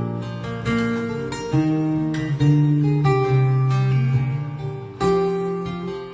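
Acoustic guitar music, plucked and strummed chords, played back through Sony P707AV loudspeakers.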